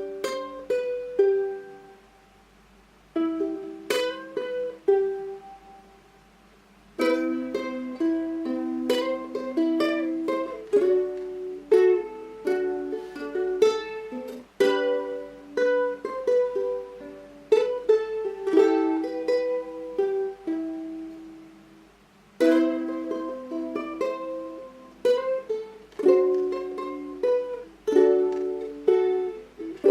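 Solo ukulele playing a plucked melody with chords, each note ringing and fading. It pauses briefly twice in the first seven seconds, then plays on without a break.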